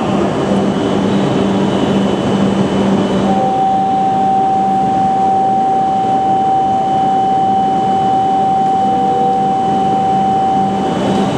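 Tohoku Shinkansen train running along the platform, a loud steady rushing noise. A steady whine joins about three seconds in and stops near the end.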